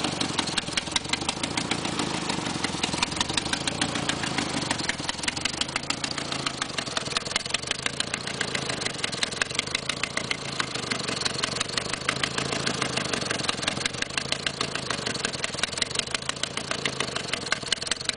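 Nissan KA24E 2.4-litre four-cylinder engine idling with a fast, even ticking. The tick is an exhaust leak at the manifold bolts or gasket, though it sounds like lifter knock.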